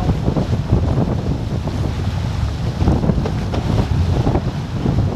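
Wind buffeting the microphone aboard a sailing racing catamaran, with water rushing along the hulls; a steady, fluttering rumble.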